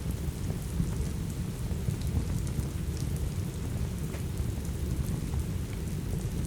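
Steady rain with a low continuous rumble, and a scattering of small sharp crackles from a wood fire through the rain.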